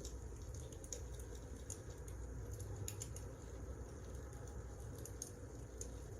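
Wood fire crackling: irregular small pops and snaps over a low steady rumble.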